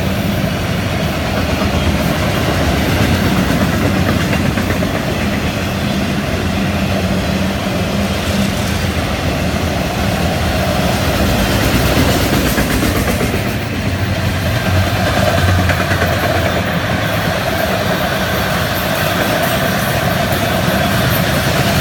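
Freight train cars rolling past steadily: Florida East Coast Railway autoracks, then empty flatcars, their wheels running on the rails.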